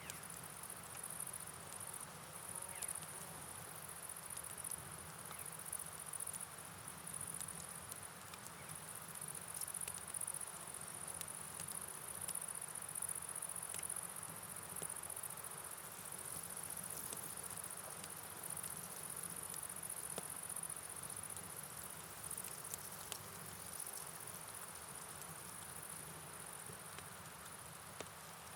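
Night outdoor ambience: a steady, high-pitched chirring of insects that swells and fades slightly. Beneath it is a soft, even hiss of falling rain and flowing water, with scattered light ticks of drops.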